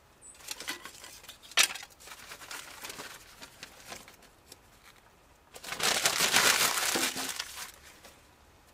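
Handling noise: scattered light rustles and clicks, a sharp knock about a second and a half in, then about two seconds of loud crumpling, rustling noise starting near six seconds in.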